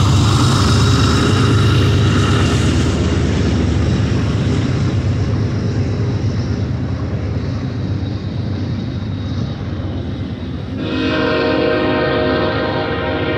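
BNSF diesel locomotives rumble past, then double-stack intermodal cars roll by on the rails with a steady noise. About 11 seconds in, a train horn begins a steady multi-note blast that carries on to the end.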